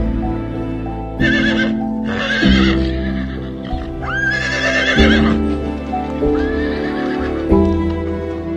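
Horse neighing several times in short, wavering calls over steady background music.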